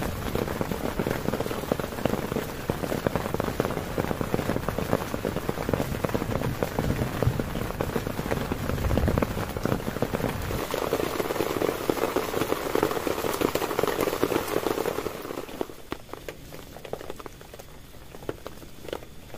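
Heavy rain falling on a tent, a dense patter of drops. About three-quarters of the way through it eases and turns lighter.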